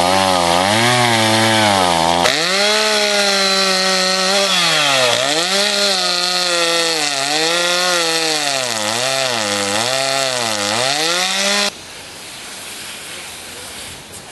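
Two-stroke chainsaw running at high revs and cutting wood, its engine pitch dropping and recovering over and over as it bogs under load; it cuts off suddenly near the end.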